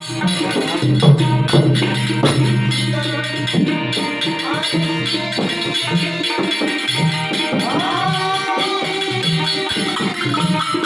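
Indian folk music: naal and tabla drumming in a steady rhythm, with jingling hand percussion and a gliding melodic line above.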